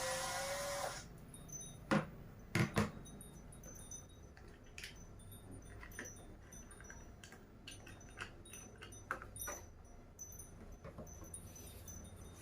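Light clicks and clinks of small metal parts and tools being handled while working on an RC truck, with three louder knocks about two to three seconds in; a short stretch of background music stops about a second in.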